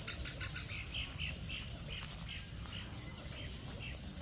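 Wading birds in a nesting colony calling in a quick series of short squawks, about three a second, growing fainter about halfway through.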